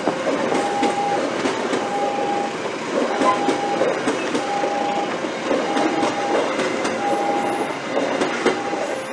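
Locomotive-hauled passenger coaches rolling past close by, a steady rumble with clickety-clack of the wheels over the rail joints. A short electronic warning beep repeats about every second and a quarter throughout.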